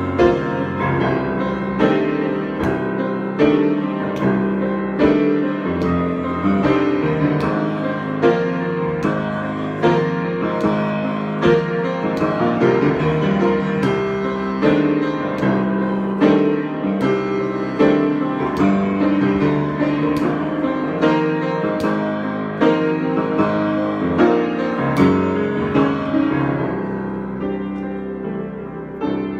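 Solo piano improvisation: notes and chords played steadily, with frequent struck attacks, easing a little softer near the end.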